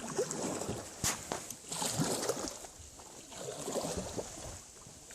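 Oars or paddles splashing in the water as a small raft is rowed, a stroke every second and a half to two seconds, with a few hollow knocks of wood against the raft.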